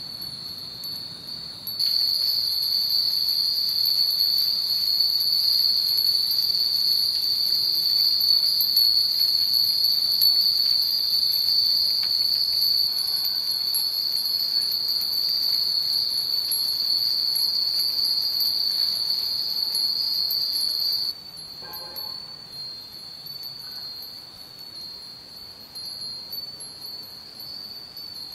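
Many cast-iron Nanbu wind chimes ringing together in the breeze, a dense, continuous high-pitched ringing. It grows louder a couple of seconds in and drops suddenly to a softer ringing about three quarters of the way through.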